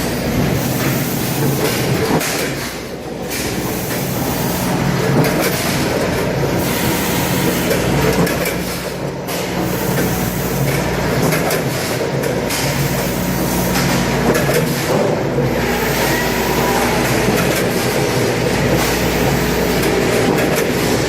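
Automatic rotary pouch packaging machine running, a steady mechanical clatter over a constant motor hum.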